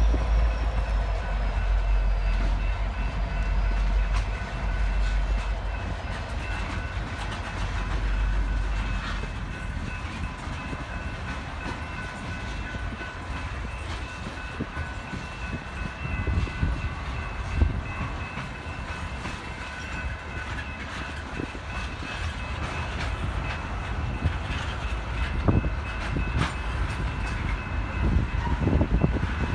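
A train moving past on the rails: a deep rumble for the first several seconds, then rail noise with scattered clicks and knocks. A steady high ringing of several tones runs underneath.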